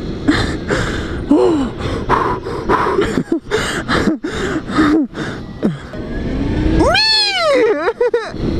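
A man's voice gasping, groaning and making short wordless exclamations, with one long rising-and-falling yell about seven seconds in, over a steady rush of wind on the microphone.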